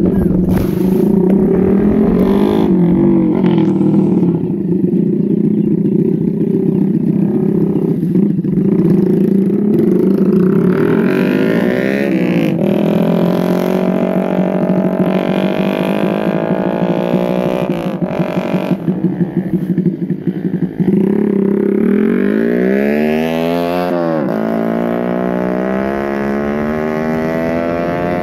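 Motorcycle engine running, steady at first, then its pitch rising and falling as it revs up and slows down, with one deep drop and climb near the end.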